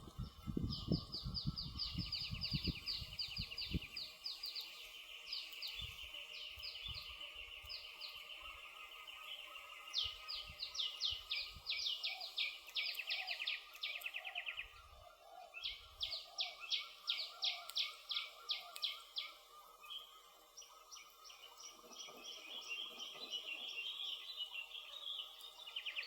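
Campfire crackling, with low pops clustered near the start and a few more scattered later. Over it run repeated trains of rapid, high-pitched chirps from forest wildlife, several pulses a second, starting and stopping in long runs.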